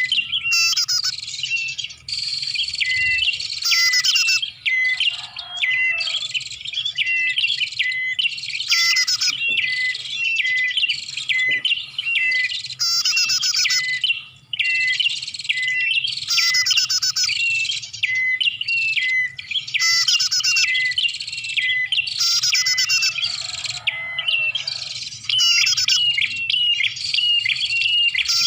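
Prinias (prenjak) calling continuously: a dense run of sharp, high chirps, broken every two to three seconds by a harsh buzzing rattle. It is a recorded lure call used to draw prenjak in.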